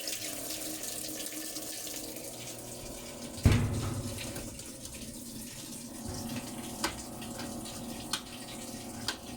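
Amana washing machine filling with water through its inlet valve, a steady rush of running water. A thump about three and a half seconds in and a few light clicks later.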